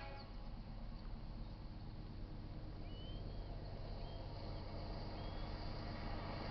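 Low rumble of an approaching diesel freight train, its GE AC4460CW and EMD SD70M locomotives slowly growing louder. A bird chirps briefly three times, about three, four and five seconds in.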